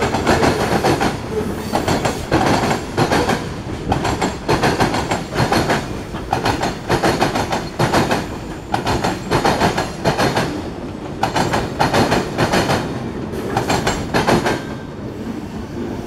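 Freight cars of a Norfolk Southern mixed freight train rolling past, their steel wheels clacking over rail joints in repeated clusters over a continuous rumble.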